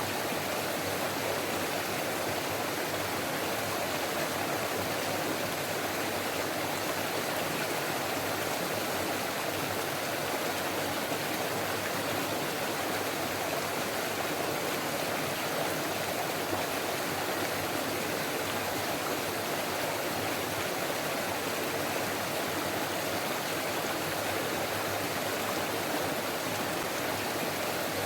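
Forest stream flowing, with a steady rush and babble of water.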